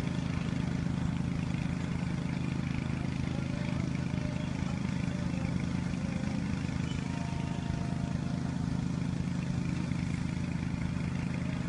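Machinery running steadily with a low, rapidly pulsing hum that holds unchanged throughout.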